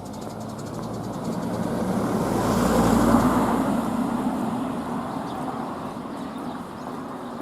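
A vehicle driving past, its rumble swelling to a peak about three seconds in and then fading away.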